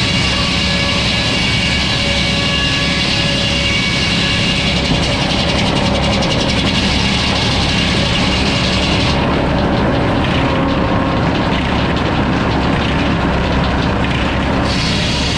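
Sawmill running steadily, its engine and saw making a continuous mechanical drone with steady tones. The higher hiss drops away for several seconds in the middle, then returns near the end.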